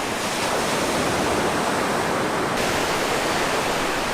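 Steady rushing of water, an even wash of noise with no distinct waves or voices.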